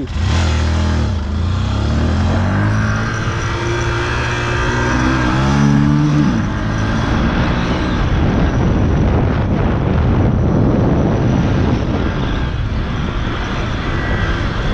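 Motorcycle engine running and rising in pitch for about six seconds, then giving way to loud wind and road noise.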